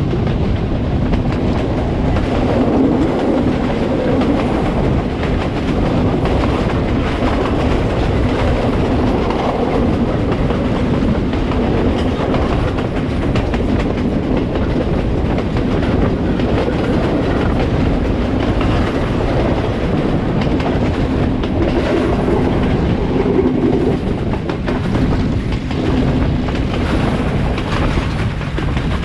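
Udaya Devi Express passenger train running steadily: a continuous rumble of wheels on rails with repeated knocks over the rail joints and a low hum that comes and goes.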